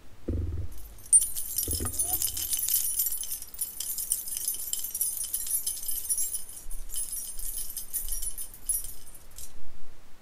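Metallic jingling and rattling, full of small clicks, starting about a second in, thinning out around the middle, picking up again and stopping shortly before the end. Two soft low thuds near the start.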